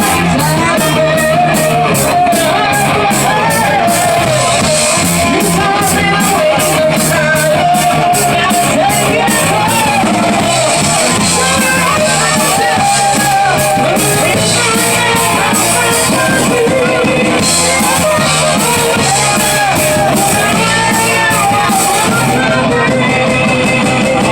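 Live rock band playing loudly, with singing over electric guitar and drums keeping a steady cymbal beat.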